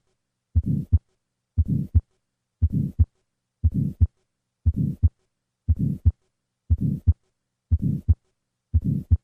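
Stethoscope recording of the systolic ejection murmur of tetralogy of Fallot, the right ventricular outflow murmur. About ten beats, roughly one a second, each a first heart sound followed by a short murmur through systole and ending in a sharp second heart sound.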